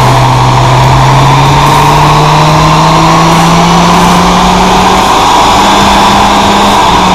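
Mitsubishi Lancer's engine under load on a chassis dyno during a pull, loud, its revs climbing steadily for about five seconds.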